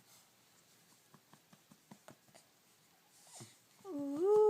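Faint soft clicking, then near the end a baby coos: one drawn-out vowel sound that rises slightly in pitch and is held.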